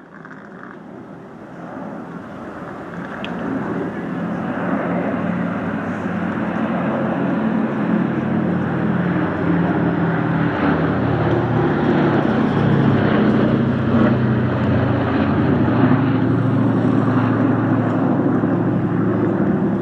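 Aircraft engine running, growing steadily louder over the first half and then holding loud and steady.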